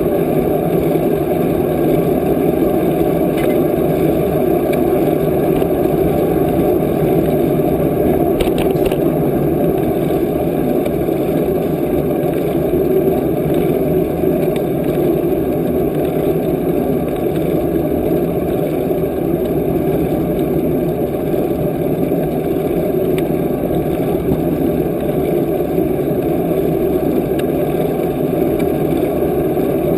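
Steady rushing wind and road noise on the microphone of a camera carried on a moving bicycle, with a couple of faint clicks about eight to nine seconds in.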